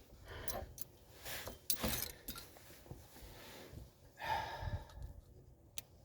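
Light clicks and scrapes of drum brake parts being worked into place by hand, with a heavy breath about four seconds in.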